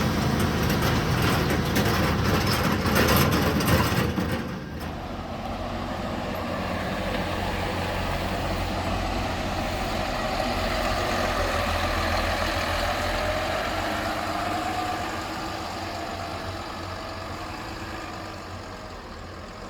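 An engine running steadily, louder and busier for the first four seconds or so, then quieter, fading near the end.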